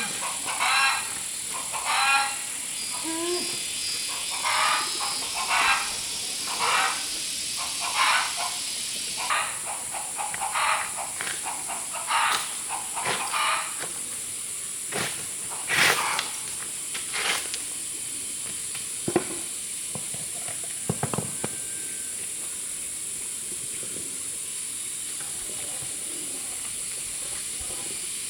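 Hungry wild boar piglet squealing over and over, about once a second, through the first half; then only a few scattered knocks and clicks. A steady high hiss runs underneath.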